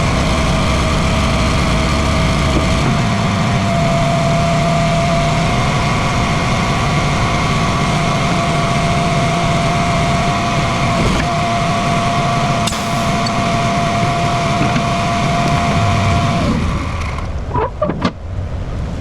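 Heavy diesel engine idling steadily with a steady whine over it. The engine sound cuts off sharply near the end, leaving a few brief sliding noises.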